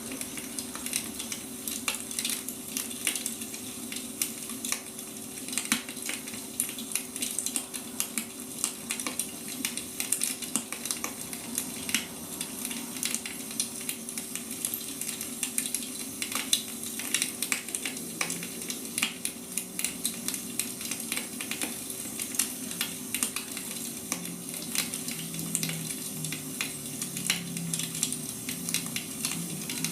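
Wood fire crackling: dense, irregular sharp crackles and pops over a steady hiss, with a faint steady hum underneath.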